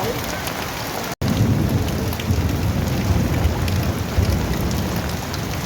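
Heavy rain falling steadily. After a brief dropout about a second in, a low rumble of thunder comes in under the rain and lasts to the end.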